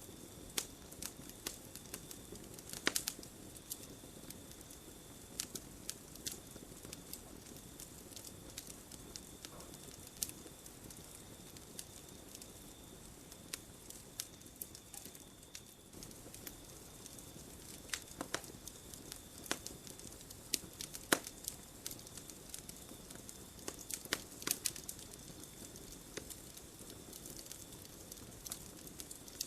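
Wood campfire crackling: irregular sharp pops and snaps, several to a second, over a soft steady rush of flame. A faint steady high tone sits in the background.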